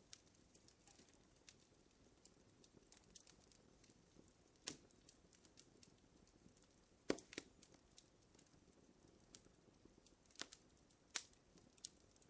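Wood fire crackling in a fireplace: irregular small snaps and pops over a faint low hiss, with a few louder pops, the loudest about seven seconds in.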